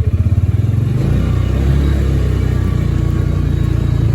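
A small vehicle's engine idling with an even pulsing note, then about a second in it picks up and runs steadily as the vehicle sets off on a ride.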